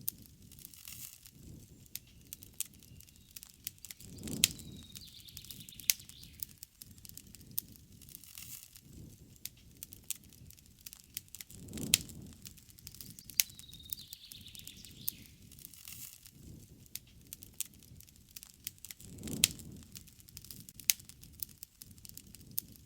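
Wood fire crackling with many sharp pops and a low rush of flame about every seven to eight seconds. A bird gives a short call that falls in pitch, twice.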